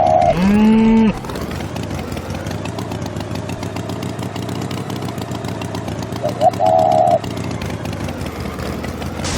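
Cartoon farm tractor engine running steadily, with a cow mooing once about half a second in: a call that rises and then holds low. A short warbling high-pitched call sounds at the start and again near the end.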